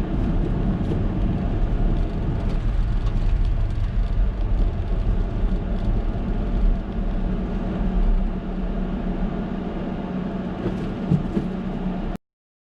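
Heavy storm surf from typhoon swell breaking on a rocky shore: a loud, continuous deep rumble that cuts off abruptly near the end.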